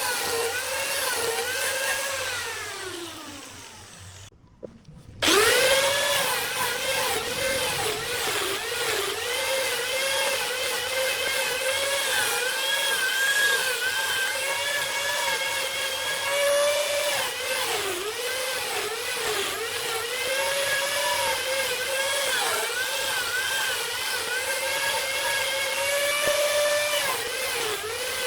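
Small high-speed power tool motor whining, its pitch dipping and recovering as it takes load. It spins down to a stop about four seconds in, then starts up again a second later and keeps running.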